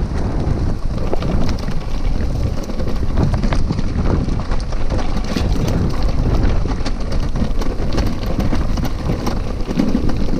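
Bicycle riding over a rough dirt trail, heard from a camera on the bike: wind buffeting the microphone over a steady low rumble, with frequent small knocks and rattles as the bike jolts along.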